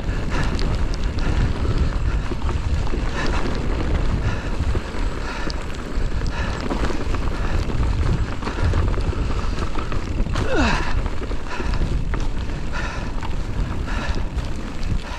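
Wind buffeting the action camera's microphone, a steady low rumble, with scattered clicks and rattles from a mountain bike on rough trail.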